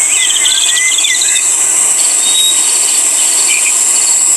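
Stock insect sound effect playing: a steady high-pitched insect trill with short bird chirps scattered over it.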